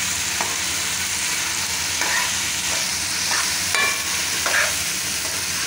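Okra, onion and tomato masala sizzling in a metal kadai while a metal spoon stirs it, scraping and clinking against the pan about once a second, with one brief ringing clink near the middle.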